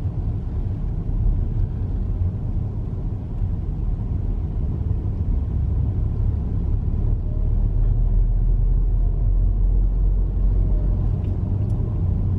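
Steady low rumble of a car driving along a road, heard from inside the cabin: engine and tyre noise, growing slightly louder about halfway through.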